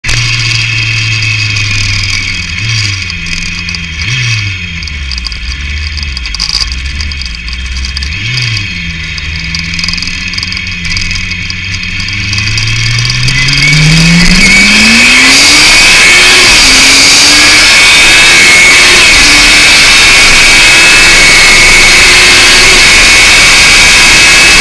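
Yamaha FZR 600 inline-four with a BOS aftermarket exhaust idling, blipped three times, then revved up in one long rise as the bike pulls away. From about halfway a loud, steady rush of wind on the microphone buries the engine, which is still faintly heard holding its revs.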